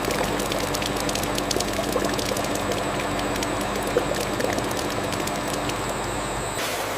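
Food-processing machinery running steadily, a constant hum under a dense patter of small clicks and rattles; the low hum drops away near the end.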